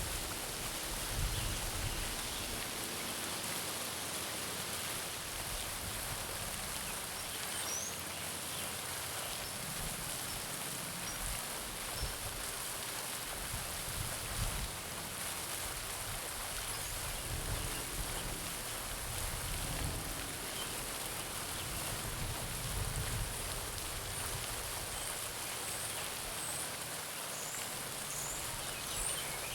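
Garden fountain splashing steadily into a pond, with a few faint bird chirps about eight seconds in and again near the end.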